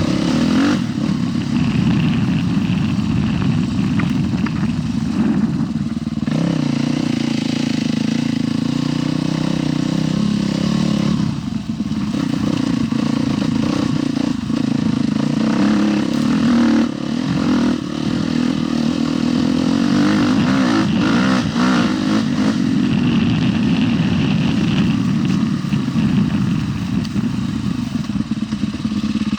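Husqvarna TE 310 dual-sport bike's single-cylinder four-stroke engine running under way, revs rising and falling with the throttle and briefly dropping off twice.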